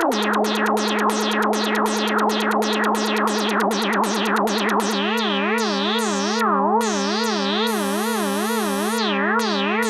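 Synthesizer music: a held low note with rapid, evenly repeating pulses above it. About halfway through, it changes to a fast warbling vibrato.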